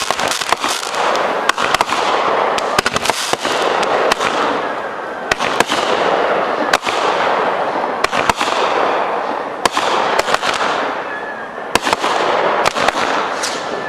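Fireworks going off in a long sequence: a continuous hissing, crackling spray with many sharp bangs and pops, several a second.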